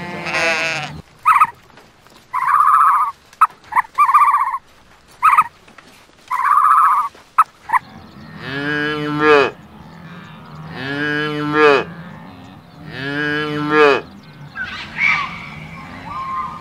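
Cattle mooing: three long calls about two and a half seconds apart, in the second half. Before them, a sheep's bleat ends in the first second and a run of short, higher calls follows. Short gliding high calls come near the end.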